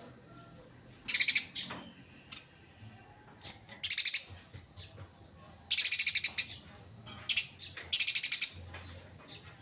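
Eurasian tree sparrows giving loud, rapid chattering calls in five short bursts, the excited chatter of sparrows fighting.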